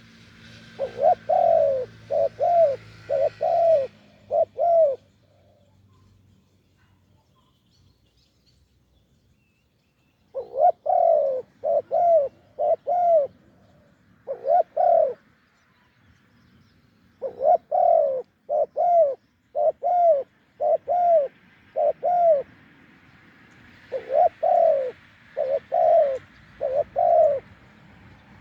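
Spotted dove cooing in repeated runs of five to seven short, mellow coos, with pauses of a few seconds between runs.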